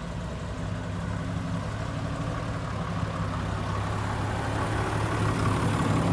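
A large vehicle engine idling steadily, growing gradually louder.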